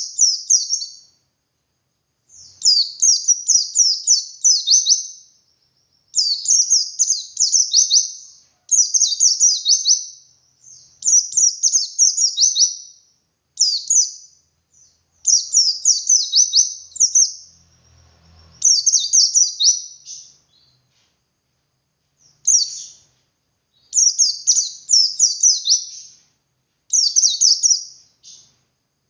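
White-eye (pleci) singing its long 'ngalas' song: fast, high twittering phrases of one to three seconds each, repeated about a dozen times with short pauses between.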